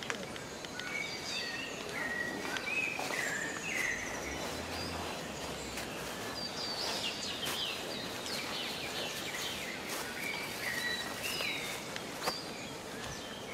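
Several birds calling with short chirps and whistled notes, some sliding in pitch, scattered throughout over a steady hiss of outdoor ambience.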